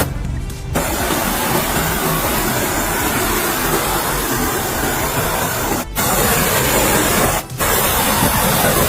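Steady hissing, mechanical noise of a workshop tool at work, dropping out briefly three times.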